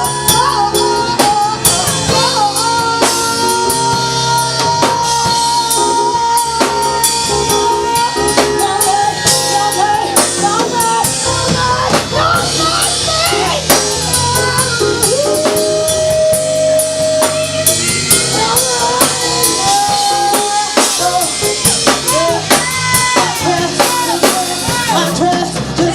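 Live band playing a slow blues-style song: drum kit keeping a steady beat, guitar, and long held melody notes over it.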